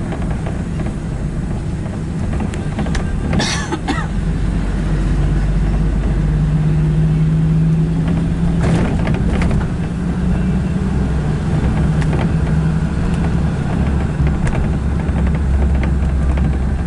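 A car on the move: steady engine hum and road rumble, with two brief rattling noises, about three and a half and nine seconds in.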